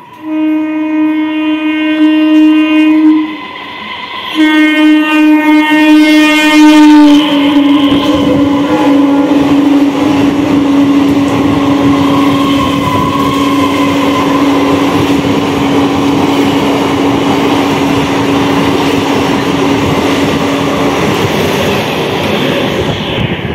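A train horn sounding two blasts as the train approaches, then a long blast whose pitch drops slightly as the train reaches the platform and passes. Under it are the loud rush and wheel clatter of coaches running through the station at speed.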